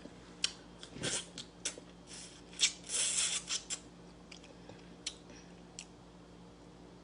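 A person chewing stewed fish head: wet clicking and smacking mouth sounds, busiest in the first four seconds, then sparser.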